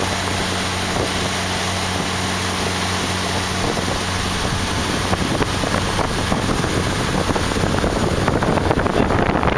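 Motorboat engine running steadily under way, a low hum under rushing water and wind. From about five seconds in, wind buffeting on the microphone grows louder and covers the engine's hum.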